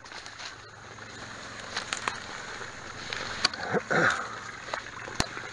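Water running steadily from the pipe of an old flowing artesian well, with scattered sharp snaps and clicks over it.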